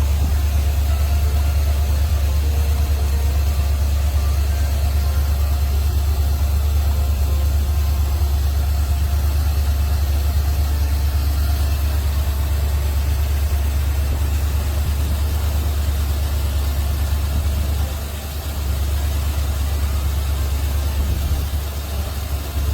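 1978 Chevrolet Corvette's 350 cubic-inch small-block V8 idling steadily, with a deep, even running note and a brief dip in level about eighteen seconds in.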